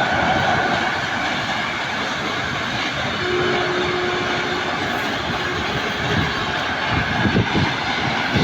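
Train passing on the track: a loud, steady noise of wheels running on the rails.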